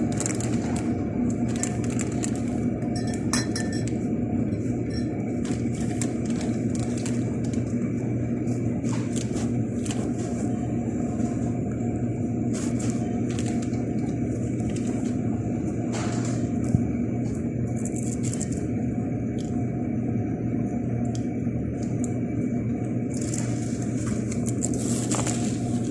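Steady low rumble of a moving vehicle, with a few scattered light clicks and clinks.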